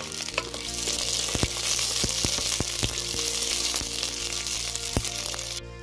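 Green chillies sizzling as they fry in hot oil in a steel pan, with a wooden spatula clicking and scraping against the pan as they are stirred. The sizzle cuts off suddenly near the end.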